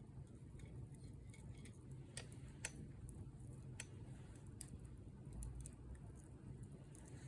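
Wood fire burning, with sharp crackles and pops at irregular moments over a low steady rumble.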